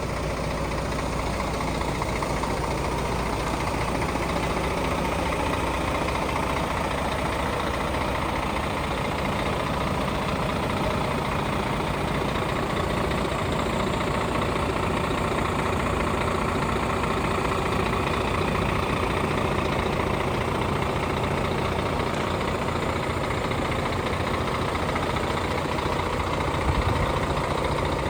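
Scania P114 dump truck's 11-litre straight-six diesel idling steadily, briefly louder once near the end.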